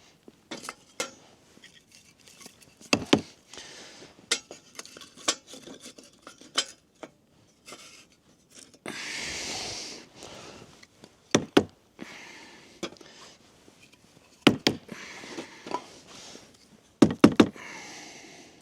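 Pieces of firewood being set and shifted in a small folding sheet-metal fire pit, a string of wooden knocks and metallic clinks and clunks. A brief rustle about nine seconds in.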